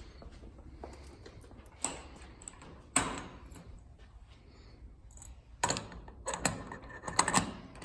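Handling noises: a couple of sharp single knocks, then a run of clattering knocks and light metallic jingles near the end.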